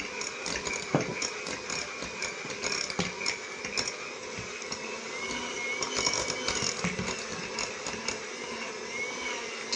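Thick choux-style dough being beaten in a bowl to work in a fresh egg, with irregular clicking strokes against the bowl.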